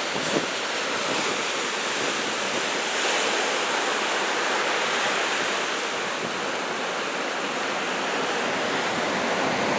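Steady rush of heavy surf breaking, the swell raised to about two metres by a typhoon.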